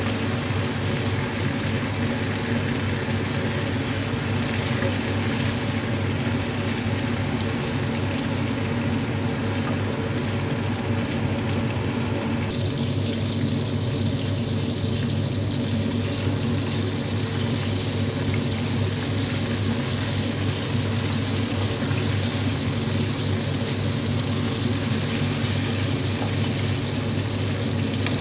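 Potatoes, eggplant and tomatoes sizzling as they fry in a pan, being stirred with a wooden spatula, over a steady low hum. About twelve seconds in the sizzle turns brighter and hissier.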